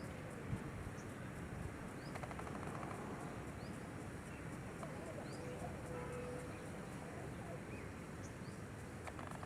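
Several faint, short, high bird chirps, each rising quickly, scattered over a steady outdoor background hiss.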